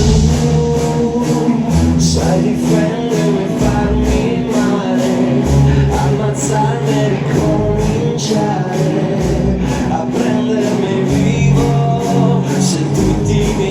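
Rock music played live by a massed rock band, with drums, guitars and many voices singing.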